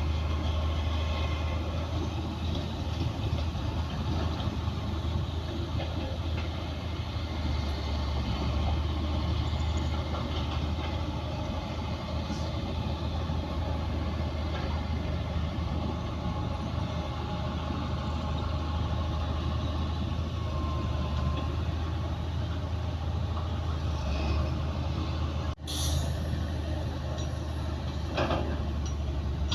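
Heavy diesel earthmoving machinery, bulldozer and dump trucks, running steadily with a strong low engine hum. The sound breaks off for an instant near the end.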